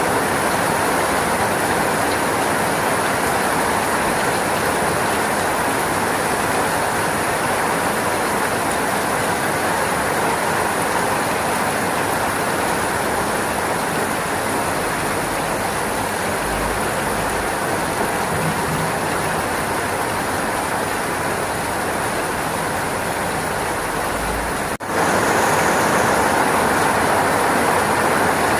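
Steady rainfall as a continuous, even hiss. About 25 seconds in, it breaks off for an instant and resumes slightly louder.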